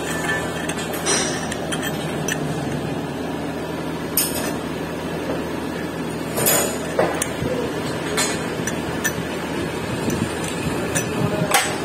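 Sharp metal knocks and clinks of tools at work on a diesel engine during liner removal, a handful of single strikes a few seconds apart, over steady background noise.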